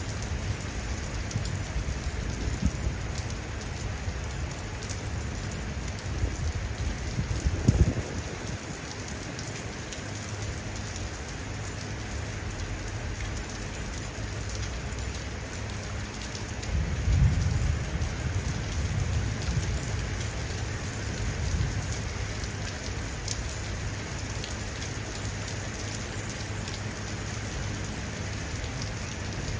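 Steady rain falling, with low thunder: a short, sharp rumble about a quarter of the way in and a longer low rumble just past the middle.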